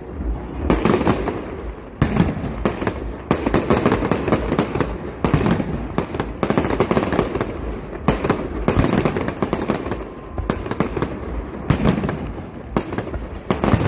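Aerial fireworks bursting in rapid, overlapping succession, a dense barrage of loud bangs and crackles that echo.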